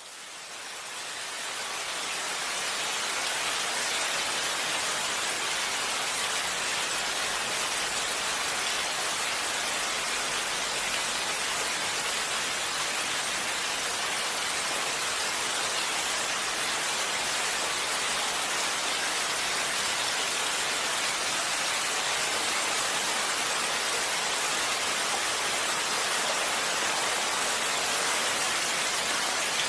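Heavy rain falling steadily, a dense even hiss that fades in over the first few seconds and then holds at one level, with no thunder.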